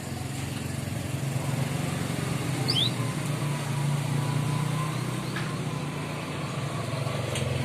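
A steady low motor drone, a little stronger in the middle. Two quick, high rising chirps from a bird come about three seconds in.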